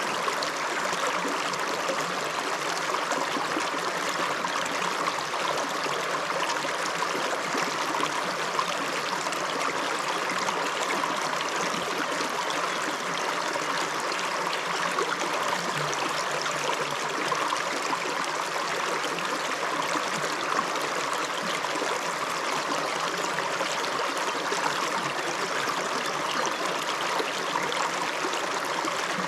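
River water running over stones: a steady rushing, babbling flow.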